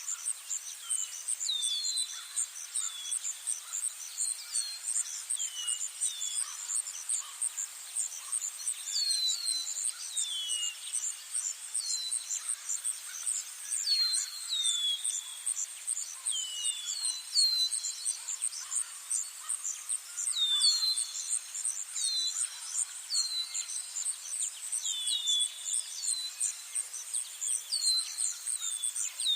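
Small birds giving short, high chirps that slide downward, often two or three in quick succession, over a steady, high, fast-pulsing insect trill.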